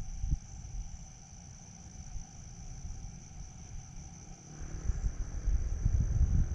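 Crickets trilling in one steady, unbroken high note, under an irregular low rumble that grows louder over the last two seconds.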